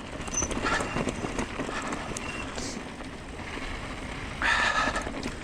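Hyper 29er e-bike rolling downhill on a wet dirt trail: steady rumble of tyres on grit and gravel with small knocks, plus wind on the microphone. A short brake squeak sounds just after the start, and the noise swells briefly near the end.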